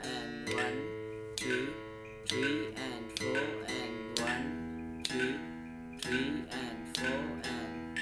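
Guitar open strings plucked in a steady rhythm of quarter and eighth notes at about 65 beats a minute, each note ringing on; a lower string joins about four seconds in.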